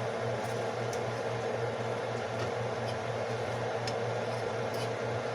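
Steady low hum from a kitchen appliance or fan, with a few faint light clicks of a utensil working chicken pieces in a pan.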